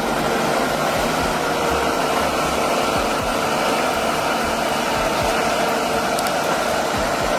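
A machine running loud and steady without change: an even rushing noise with a faint steady hum in it.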